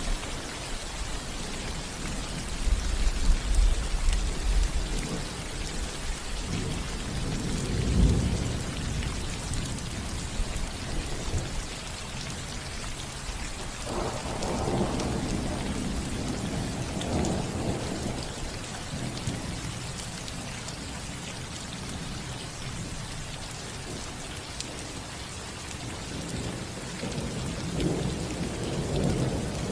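Steady rain falling on a roof, with rolling thunder rumbling underneath: a rumble in the first few seconds peaking about eight seconds in, another around the middle, and a louder one starting right at the end.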